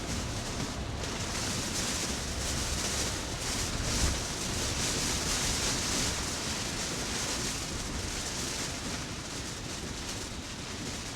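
Heavy rain pelting a moving car, heard from inside the cabin, with tyres hissing through water on the road. It swells louder a few seconds in and eases off a little near the end.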